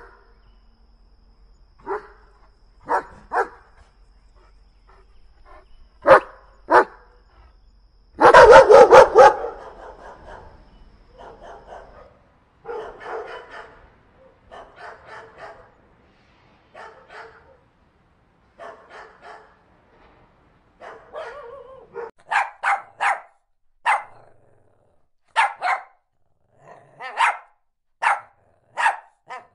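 Dogs barking: a few sharp single barks, then a loud rapid flurry of barks about eight seconds in, which is the loudest part. A stretch of quieter barking follows, and a run of sharp barks comes near the end.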